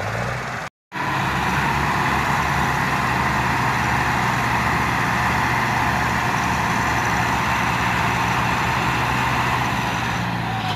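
Tractor diesel engine running steadily at constant revs, loud and unchanging. The sound cuts out completely for a moment just under a second in, at an edit, then the engine comes back.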